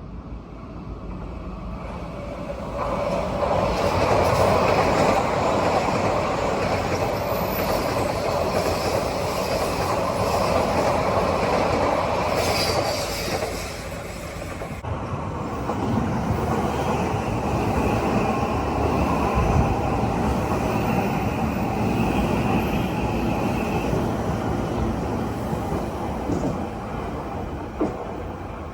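Odakyu Line electric trains running past on the tracks with a steady rumble of wheels on rail. The sound swells a few seconds in and changes abruptly about halfway, after which a steady high whine runs for several seconds.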